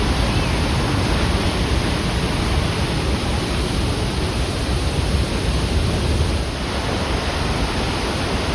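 Steady roar of rushing water from a waterfall or rapids, easing off slightly near the end.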